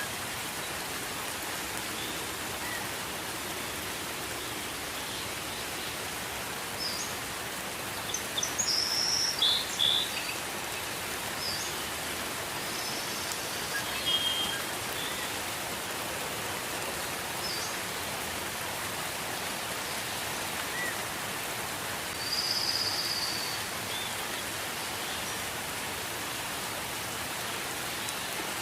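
Steady gentle rain falling, an even hiss. Birds chirp over it now and then: a flurry of short high calls about a third of the way in, one near the middle, and a longer call two-thirds of the way through.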